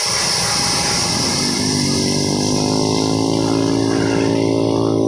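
Container truck's diesel engine pulling slowly uphill under load. Its steady engine note becomes clear about a second and a half in.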